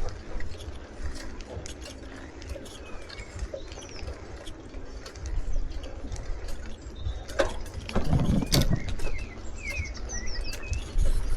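Small birds chirping, with quick short calls that come thickest near the end, over a steady low rumble of wind on the microphone. A couple of sharp knocks come about seven and a half and eight and a half seconds in.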